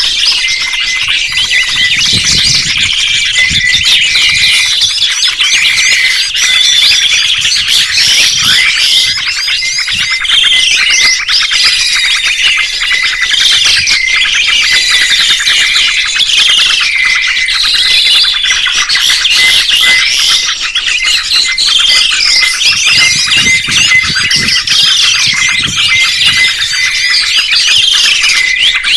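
Loud, dense chorus of songbirds chirping and whistling, many overlapping calls with quick rising and falling notes and repeated phrases, going on without a break.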